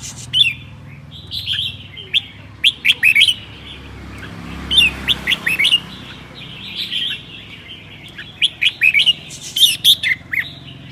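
Red-whiskered bulbul singing in short phrases of quick chirps and whistled notes, repeated every second or two, with a brief pause in the middle.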